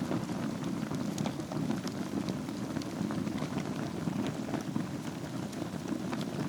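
Wood fire burning in a fireplace over glowing embers: a steady low rush of flame dotted with many small, irregular crackles and pops.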